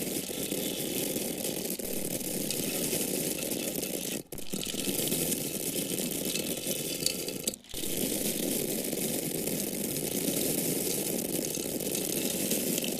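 Dry corn kernels pouring and falling in a steady stream, a dense hiss of many small grains striking at once. It breaks off for an instant twice, about four seconds in and about seven and a half seconds in.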